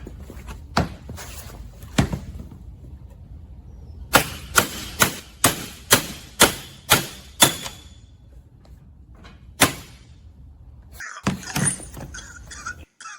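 A run of about eight sharp metal-on-metal knocks, roughly two a second, with a few single knocks before and after. This is typical of hammering a part of the trike's rear shaft assembly into place. Clattering and squeaking follow near the end.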